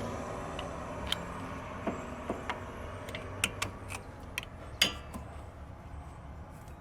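Metal tools and brake parts clinking and knocking as they are handled, in scattered sharp clicks with a louder knock about five seconds in, over a faint steady low hum.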